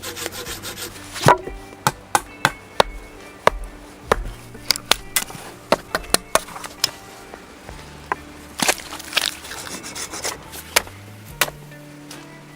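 Wood being worked by hand: irregular sharp knocks and clicks, a few every second, with the loudest about a second in. Soft background music with sustained low notes runs underneath.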